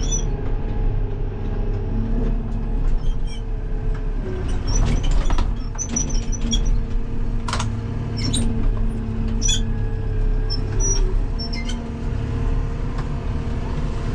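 Farm vehicle engine running steadily with a low drone, with scattered short squeaks and clicks over it.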